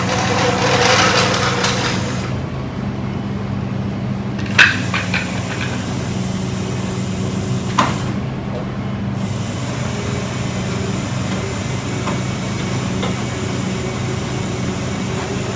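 Tow truck engine running steadily while the car is lowered, with a rushing swell in the first couple of seconds and two sharp metallic clanks, about five and eight seconds in.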